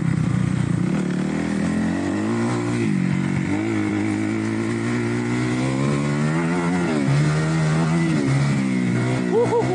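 2008 Kawasaki KX250F's single-cylinder four-stroke engine running under way off-road, revs rising and falling as the throttle is worked, with a sharp rev-up and drop about seven seconds in.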